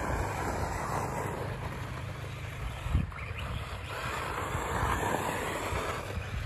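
Losi XXXT electric stadium truck running on loose dirt: a steady motor and drivetrain whine with tyre noise that rises and falls. A single sharp thump comes about three seconds in.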